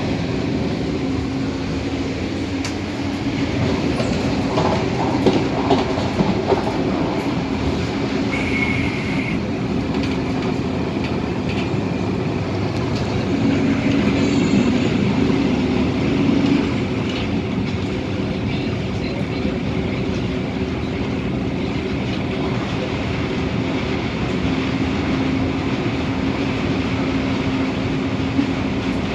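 MTR Tung Chung Line A-Train heard from inside the carriage, running at speed: steady rolling noise of wheels on rail under a low steady hum, with a few sharp knocks about five to six seconds in. This car is noted for a moderate wheel beat (拍子), the thump of a flat spot on a wheel.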